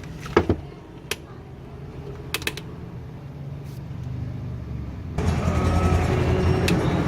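A few sharp clicks and knocks over a low steady hum, then about five seconds in, music starts abruptly.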